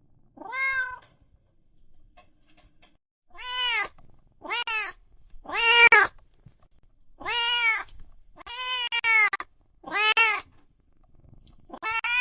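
A cat meowing over and over: about eight separate meows of under a second each, every one rising then falling in pitch. There is a longer pause after the first meow.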